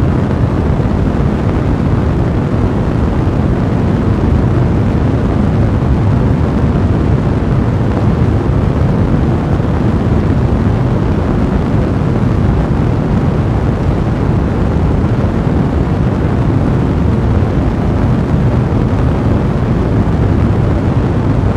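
Fire blazing in a fireplace: a steady, dense low rumble of burning with no distinct crackles standing out.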